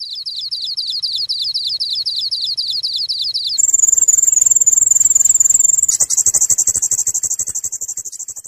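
Unidentified wild bird singing: a fast run of repeated high notes, about eight a second, that switches abruptly about three and a half seconds in to a higher, faster trill, which grows fainter near the end.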